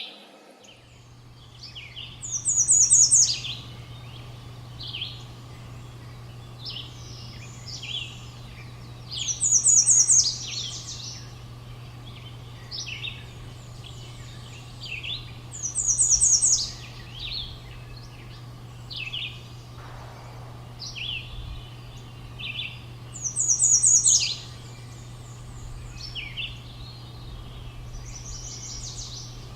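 Morning songbird chorus: one bird repeats a loud, high, bright song phrase about every six to seven seconds, while other birds chirp in between. A steady low hum runs underneath.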